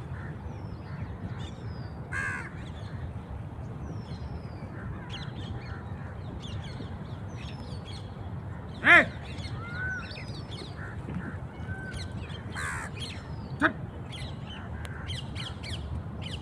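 Birds calling while being fed: many short high chirps, broken by a few louder, harsher calls, the loudest about halfway through.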